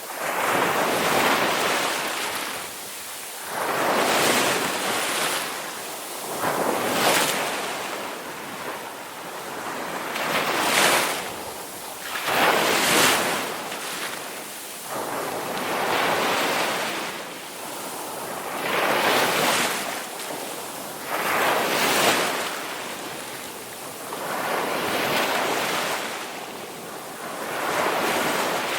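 Ocean waves rolling in, a rushing swell of surf about every three seconds that rises and ebbs away.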